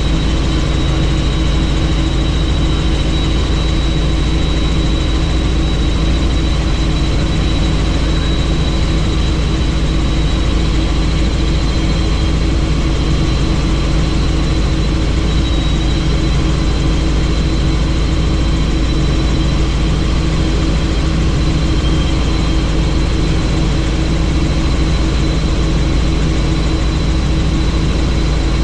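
Helicopter in steady flight: a constant drone of rotor and engine with a thin high whine on top, unchanging throughout.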